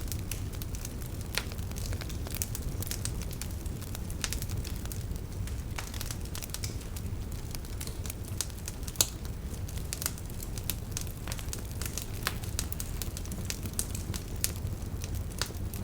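Fireplace fire crackling: irregular sharp pops and snaps over a steady low sound of the burning flames, with one louder pop about nine seconds in.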